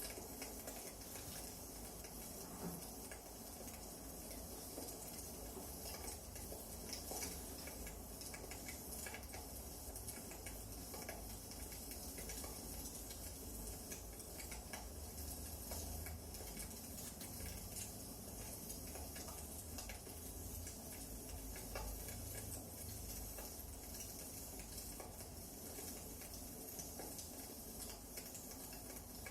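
Wood fire burning in a fireplace, crackling with irregular small pops and snaps over a low steady rumble.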